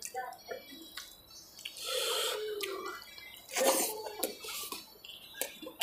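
Close-up chewing and wet mouth sounds of a man eating vegetable biryani with his fingers, with many small smacks and clicks.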